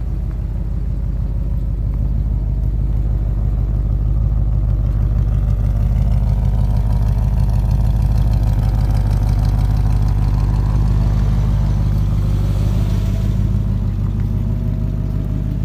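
1965 Oldsmobile 442's 400 cubic-inch V8 idling, a steady low rumble that grows louder from about two seconds in and eases off near the end.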